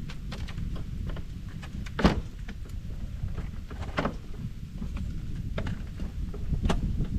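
Low rumble of blizzard wind buffeting the microphone, with scattered knocks and clatter; the loudest thump comes about two seconds in, with others about halfway and near the end.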